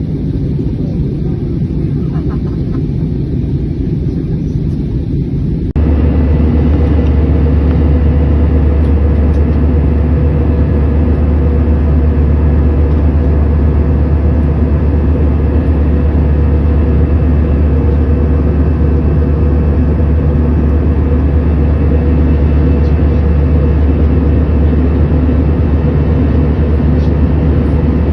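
Steady roar of an airliner's cabin noise in flight, with a low drone from the engines; about six seconds in it jumps suddenly to a louder, deeper drone that holds steady.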